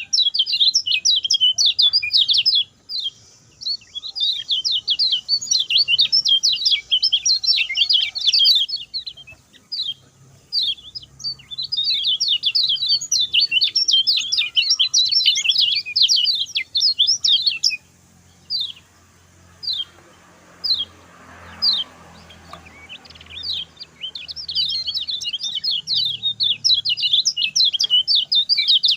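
Lemon-bellied white-eye (kecial kuning) singing a fast, high chattering song of quick down-slurred notes. It sings in long rapid runs, broken about two-thirds of the way through by a few seconds of single spaced notes before the fast run resumes.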